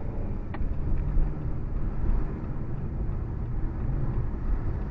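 Car cabin road and engine noise while driving, a steady low rumble, with a single brief click about half a second in.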